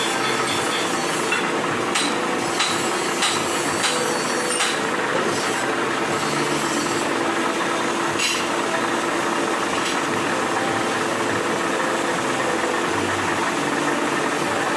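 Workshop machinery running with a steady hum, with a series of sharp taps or knocks in the first few seconds and two more later on.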